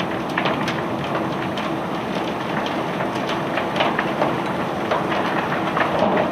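Cobblestones clattering as they are unloaded: many irregular sharp knocks and clicks over a steady engine drone.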